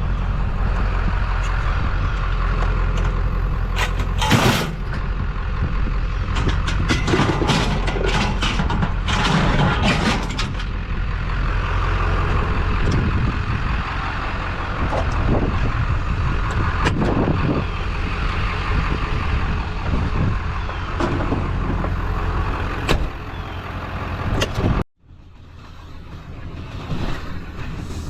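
Vehicle engine running steadily, with a run of clanks and rattles from metal being handled about 4 to 11 seconds in. The sound cuts out abruptly near the end and comes back quieter.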